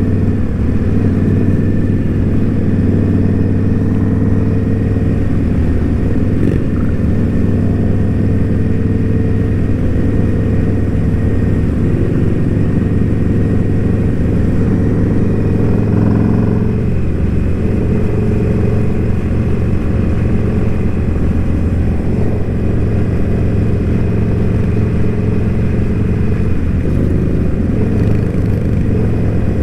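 Indian Scout Bobber's V-twin engine running at a steady riding speed. Its pitch holds even apart from a brief dip about halfway through.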